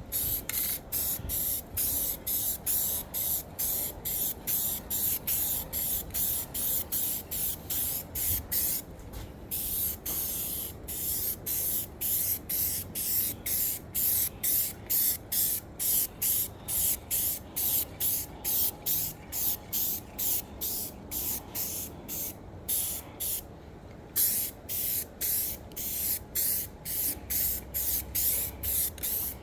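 Paint being sprayed onto the cutter body in quick, repeated hissing passes, about two a second, with a couple of short pauses.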